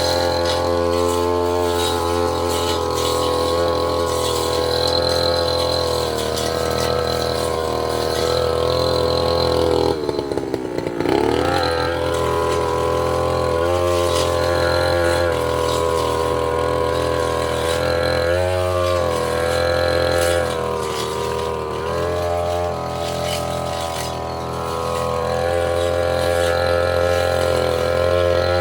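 Brush cutter's small petrol engine running at high revs while slashing brush. About ten seconds in the revs drop sharply and climb straight back up, and there are smaller dips in speed later on.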